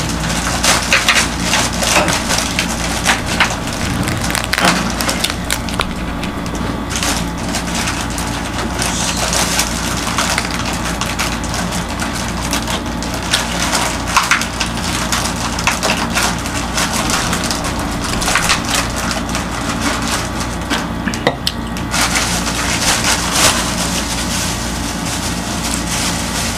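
Close-miked chewing and crunching of crisp pizza crust and baked flatbread, with many irregular crackling crunches, over a steady low hum.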